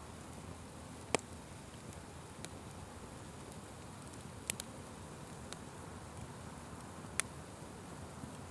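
Fire burning with a faint steady low rush and scattered sharp crackles and pops, the loudest about a second, four and a half seconds and seven seconds in.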